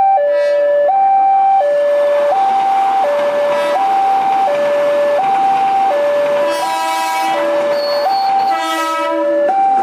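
Railway level-crossing warning alarm sounding a steady two-tone high-low alternation, each tone lasting a little under a second. A passing train's rumble swells in the middle, and two short train horn blasts come near the end.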